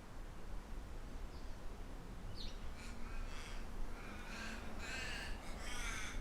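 A bird calling repeatedly, about four calls in the second half, with a short chirp or two from another bird, over a low steady wind rumble.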